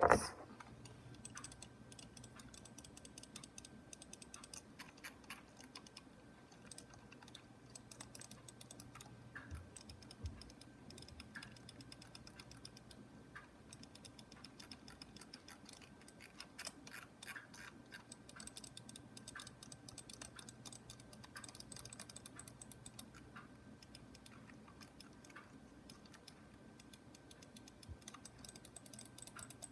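Computer mouse being clicked and scrolled close to the microphone: a quiet, dense, irregular run of light plastic clicks, with a few sharper ones.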